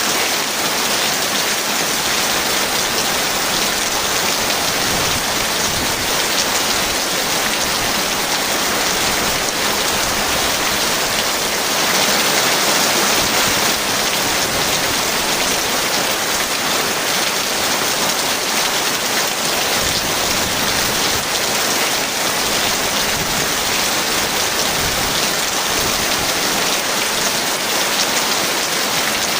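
Heavy rain falling in a steady, dense hiss, swelling slightly about twelve seconds in.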